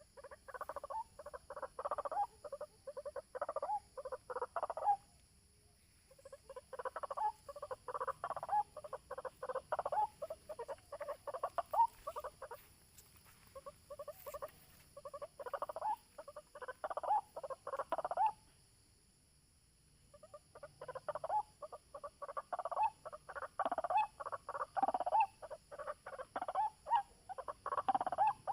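White-breasted waterhen (ruak-ruak) calling: long runs of rapid, repeated notes, broken by short pauses about five seconds and about eighteen seconds in.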